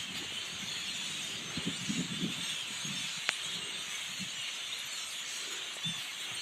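Steady high-pitched din of a large flock of birds calling all at once, with a single sharp click about three seconds in.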